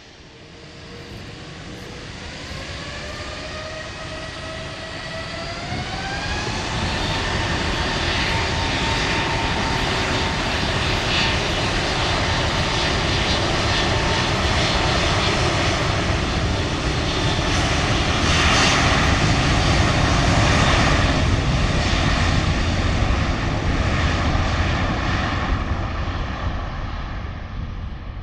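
Airbus A380's jet engines spooling up for takeoff, a rising whine that levels off about six seconds in. The engine noise then keeps building, loudest about two-thirds of the way through, and begins to ease near the end.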